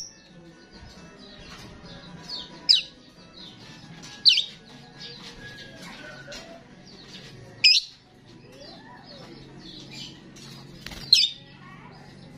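Starling singing: a steady run of high-pitched chattering, broken four times by a loud, sharp, sweeping call every few seconds.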